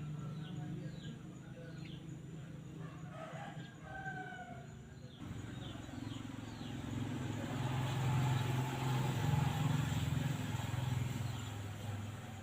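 Small birds chirping in short, quick falling notes, with a rooster crowing briefly about three seconds in. A motor vehicle passes, its low engine hum rising to a peak around the two-thirds mark and then fading.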